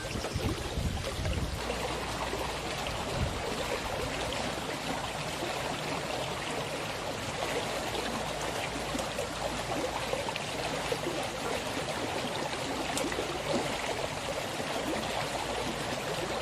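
Running water, a stream flowing with a steady, even rush.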